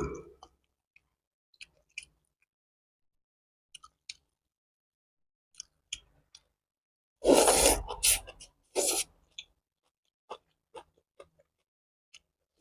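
Close-miked mouth noises of someone eating pho: scattered faint wet clicks from chewing, then a loud cluster of eating noises about seven seconds in that lasts roughly two seconds.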